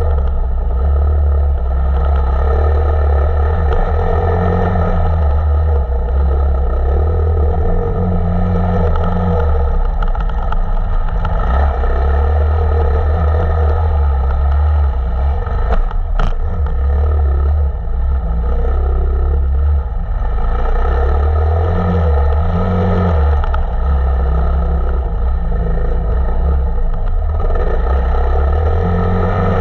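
KTM 525 EXC dirt bike's single-cylinder four-stroke engine running under load, its pitch rising and falling with the throttle every few seconds. A single sharp knock about sixteen seconds in.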